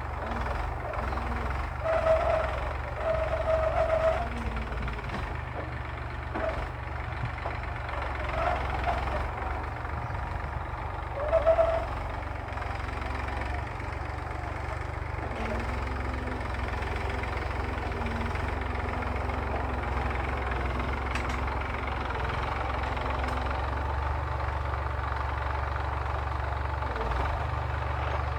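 Massey Ferguson tractor engine running steadily while pulling a plough, a constant low drone. A few short higher-pitched tones cut in over it in the first half.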